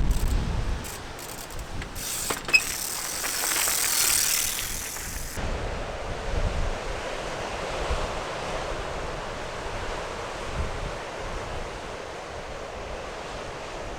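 Wind rushing across the microphone, with a few clicks and one sharp knock about two and a half seconds in. About five seconds in the sound changes abruptly to a steadier, duller rush of wind.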